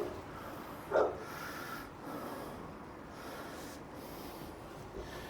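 A dog barks once about a second in, a short gruff bark like the ones just before it; the rest is low background noise.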